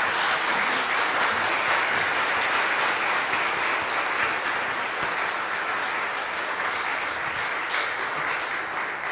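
A congregation applauding steadily, many hands clapping at once in welcome of a newly baptized member.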